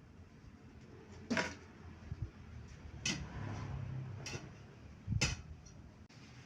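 Four separate knocks, the loudest about a second in and again near five seconds, with a low rumble between the second and third.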